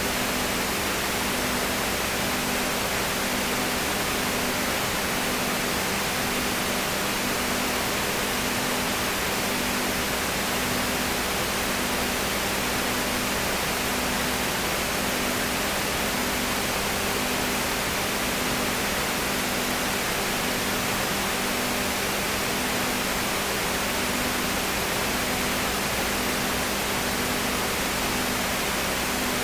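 Steady noise hiss with a low hum that pulses about once a second, unchanging throughout.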